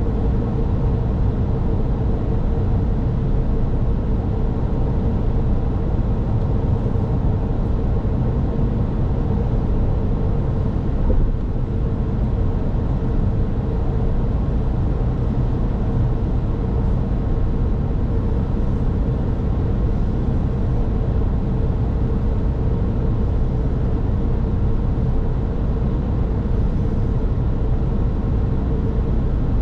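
A car driving at a steady speed: low tyre and engine rumble with a steady hum, and one brief bump about 11 seconds in.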